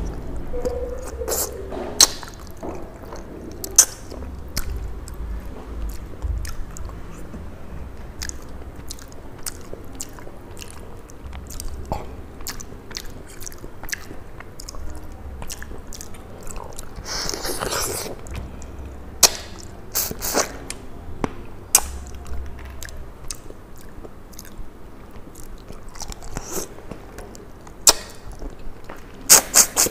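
Close-miked chewing and biting of a rice-and-curry meal eaten by hand, with sharp wet clicks and smacks scattered throughout. There is a longer, noisier chewing burst a little past the middle and a quick run of clicks at the end.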